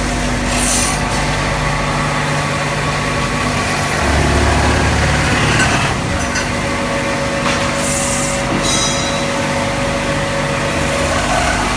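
CNC drilling, milling and tapping machine running: a steady motor hum, a heavier rumble for about two seconds in the middle, and short hissing bursts several times.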